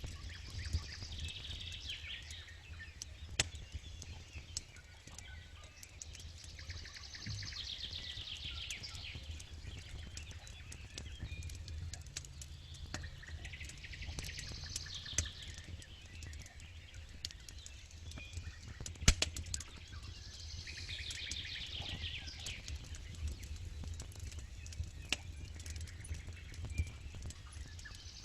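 Wood campfire crackling with scattered sharp pops, one louder pop about two-thirds of the way through, while songbirds sing in short bursts every several seconds.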